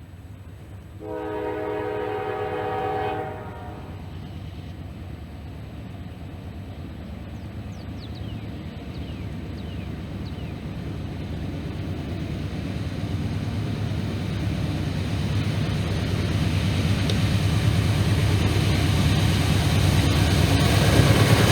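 Norfolk Southern locomotive horn sounding one chord about a second in, lasting about two seconds. Then the train's rumble grows steadily louder as it approaches.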